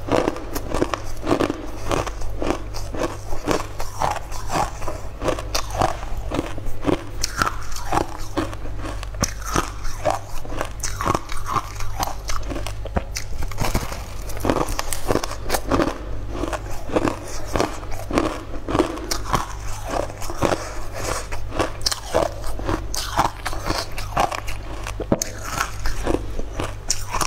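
Close-up biting and chewing of a hard, crystal-coated purple food slab: repeated sharp, crackly crunches, over a steady low hum.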